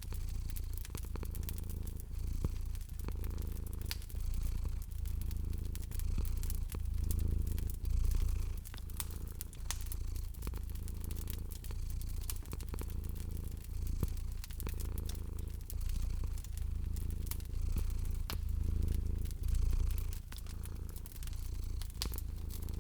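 Domestic cat purring steadily, the low rumble swelling and easing with each breath, over the sharp little pops and crackles of a wood fire.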